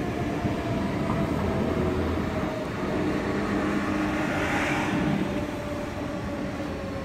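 Electric commuter train passing under and moving away along the line, a steady rumble of wheels on rail. A faint whine slowly falls in pitch, and a brief hiss comes about four and a half seconds in.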